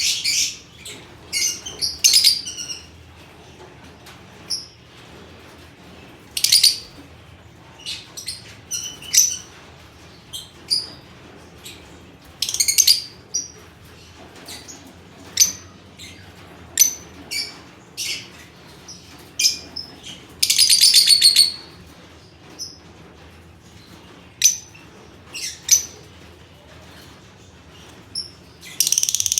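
Albino red-eyed lovebirds chirping: short, shrill, high calls every second or two, with a longer rapid chattering burst about two-thirds of the way through and another near the end.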